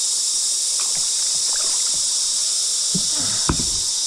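Cicadas buzzing in a dense, steady chorus. A few short splashes and a sharp knock at the kayak come near the end.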